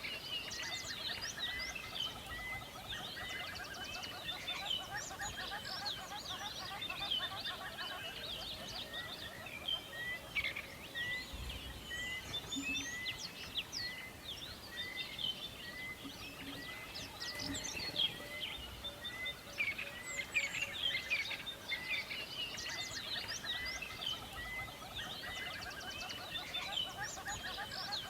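Many wild birds chirping and singing together, a dense dawn chorus of overlapping calls and trills. Through the middle, one bird repeats a short note at an even pace, a little more than once a second.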